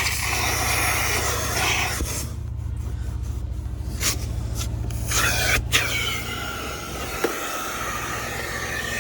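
Carpet extraction machine's vacuum motor running steadily while its upholstery tool is drawn over soaked car carpet, sucking up water with a rasping hiss. The hiss drops away for a couple of seconds about two seconds in, then returns with a few sharp clicks.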